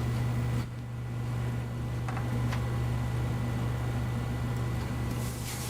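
Desktop PC running with two Seagate Exos X22 22TB helium hard drives spinning: a steady, low hum from the drives and case fans, with a few faint ticks. The drives are very silent.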